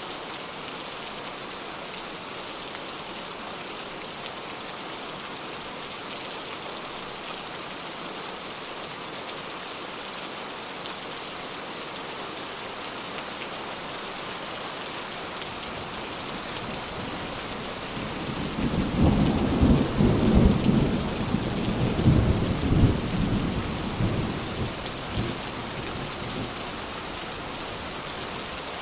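Steady rain with a thunder roll that builds about two-thirds of the way through, rumbles loudly for several seconds and fades away.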